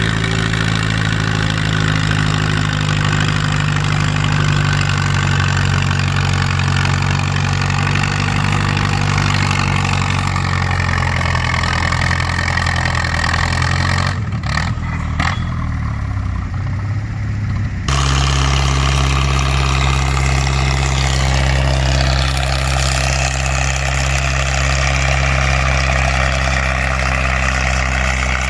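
Farm tractor engine running hard under load, its note sagging in pitch toward the middle as it lugs down. About two-thirds of the way in, the sound changes abruptly to another steady, deep engine note.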